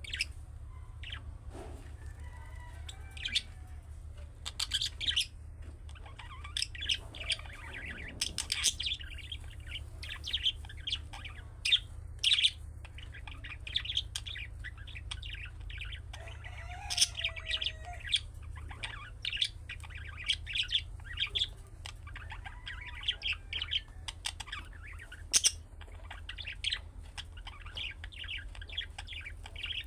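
Budgerigar chirping and warbling: a continuous chatter of short, quick chirps broken by several louder, sharp calls. A steady low hum runs underneath.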